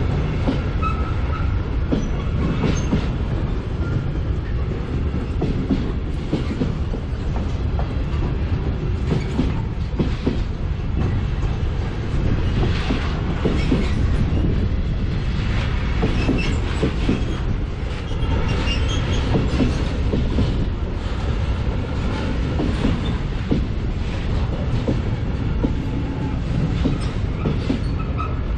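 Covered freight wagons of a long electric-hauled goods train rolling past at a level crossing: a steady low rumble of wheels with rhythmic clattering over rail joints and brief wheel squeals now and then.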